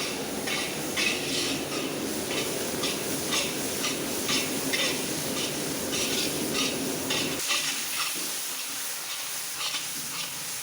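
Onion, curry leaves and ginger-garlic paste sizzling in coconut oil while being stirred continuously, the utensil scraping the bottom of the pot about twice a second so the masala won't stick as it browns. A low background rumble cuts off suddenly about seven seconds in.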